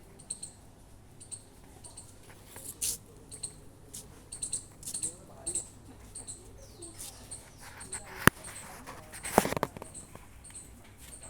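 A small animal or bird gives short high chirps over and over, about two a second. A sharp click comes about eight seconds in, and a louder noisy burst follows a second later.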